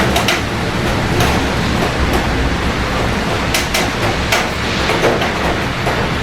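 Steady heavy rain with a low rumble underneath, and irregular sharp taps of drops striking a hard surface close by.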